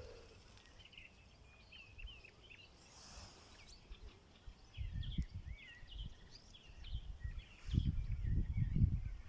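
Small birds chirping over and over with short, high, twisting calls. From about halfway through, bursts of low rumbling noise come in and grow louder near the end.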